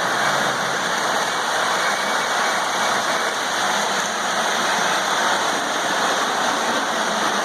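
Model trains running on a layout: a steady rushing noise of wheels rolling on track and motors running, with no change in level.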